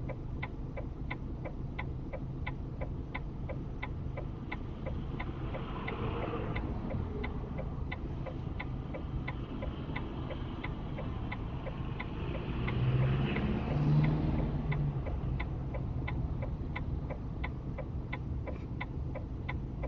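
Car indicator ticking steadily inside the cabin, about two ticks a second, over a low engine and road hum. A louder rumble builds and fades about thirteen seconds in.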